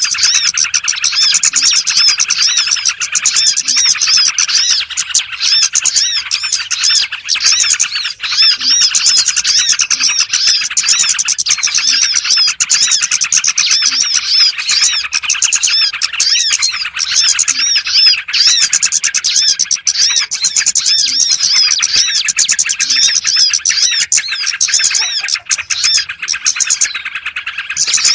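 Small birds calling in a dense, continuous chorus of high, rapid chirps and twitters: a lure call (pikat) for attracting small birds.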